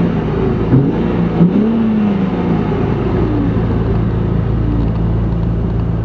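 Infiniti Q50's 3.0-litre twin-turbo V6 (VR30DDTT) running through its stock exhaust. The engine is blipped a couple of times in the first few seconds, the pitch rising and falling, then settles back to a steady idle.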